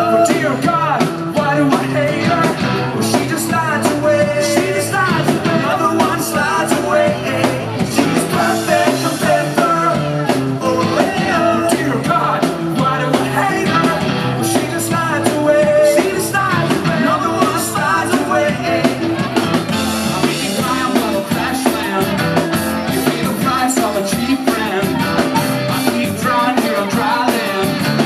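Rock band playing live, with electric guitars and a drum kit, loud and continuous.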